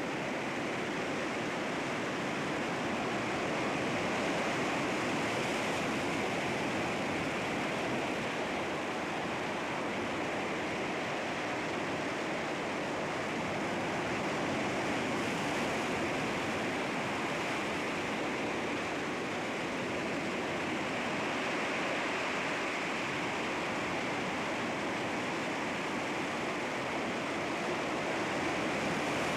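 Sea waves washing against rocks, a continuous wash of surf that swells gently every few seconds.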